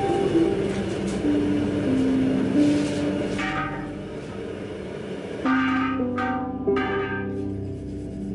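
Hammer blows ringing off a blacksmith's anvil while steel is forged: a strike, then three quick ones about half a second apart past the middle, each leaving a bright metallic ring. Background music plays underneath.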